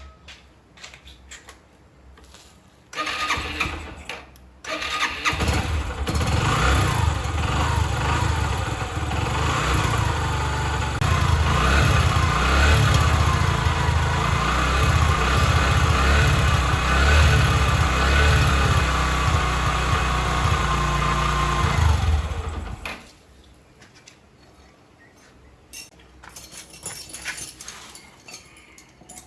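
Restored Yamaha 125cc motorbike engine started: a short burst about three seconds in, then it catches and runs steadily for about eighteen seconds before being shut off abruptly.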